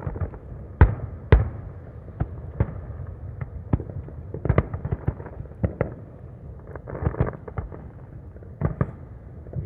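Aerial fireworks bursting: an irregular string of booms and pops, several a second at times, the loudest two about a second in.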